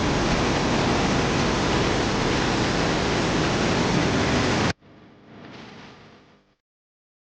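Loud, steady rushing noise that cuts off suddenly a little over halfway through, followed by a brief faint sound and then silence.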